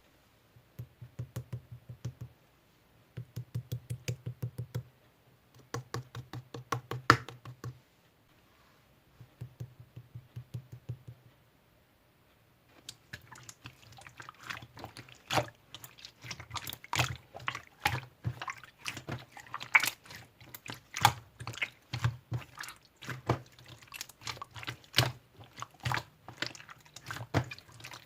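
Slime being squeezed and pressed by hand, making rapid small clicking pops. The pops come in short bursts during the first half and run almost continuously from about halfway on.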